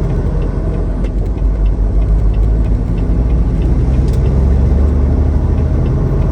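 Semi truck running at road speed, heard from inside the cab: a steady low engine drone mixed with road noise, with a faint regular ticking and a couple of small clicks.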